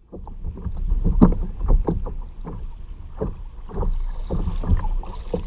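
Water sloshing and splashing around a kayak on the water, with irregular knocks over a steady low rumble.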